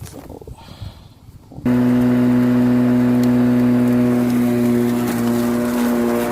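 Battery-powered EASYSURE 18.5 lawn mower's electric motor and blade switching on abruptly a little under two seconds in, then running at a steady pitch.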